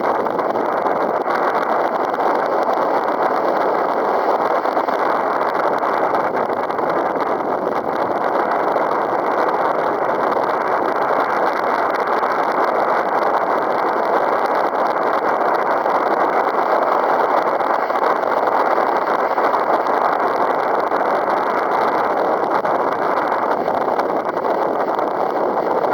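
Strong gusty wind blowing across the microphone, a loud steady rushing.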